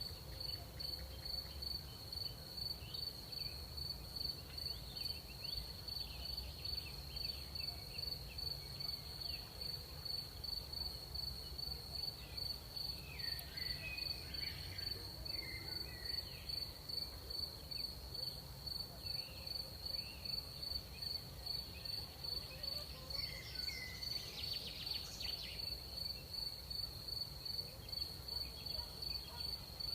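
Crickets chirping in a steady, even pulse on one high pitch, with fainter scattered chirps of other insects around the middle and near the end, over a low steady rumble.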